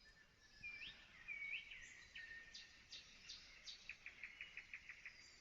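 Faint songbird song at night: a few rising whistled notes, then sharp high strokes, ending in a rapid even series of dry notes, about eight a second.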